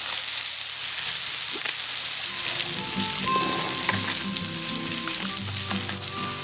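Chopped vegetables frying in a hot cast iron skillet with a steady sizzle.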